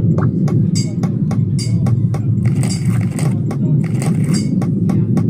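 Video keno machine's draw sound effect: a steady low rumble that starts and stops abruptly, with a quick run of ticks, about three to four a second, as the numbers are drawn.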